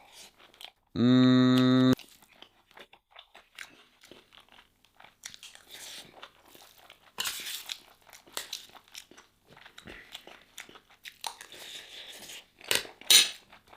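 Close-miked chewing and eating sounds of beef and habiyah, with wet mouth clicks and smacks throughout and a couple of sharper clicks near the end. About a second in, a loud steady buzzing tone sounds for about a second.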